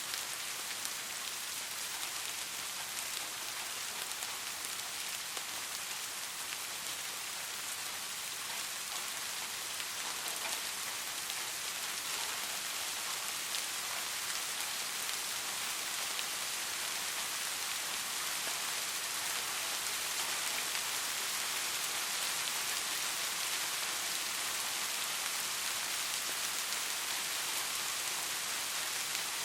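Steady rain falling, a dense even hiss with scattered droplet patter, swelling slightly about halfway through.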